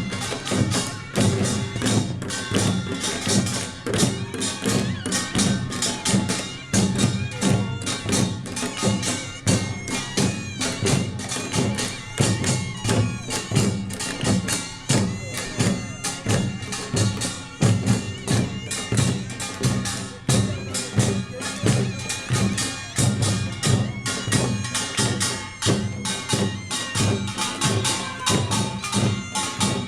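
Korean pungmul percussion band playing a dense, fast rhythm: kkwaenggwari small gongs, janggu hourglass drums and buk barrel drums, with ringing gong tones above the beat.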